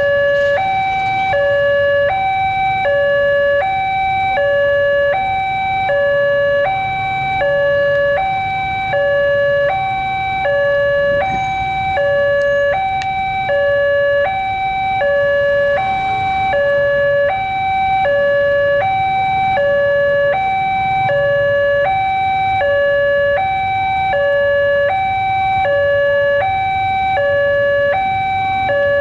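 Indonesian railroad level crossing warning alarm sounding: an electronic two-tone signal, a lower and a higher tone alternating evenly, each lasting about three-quarters of a second, warning that a train is approaching.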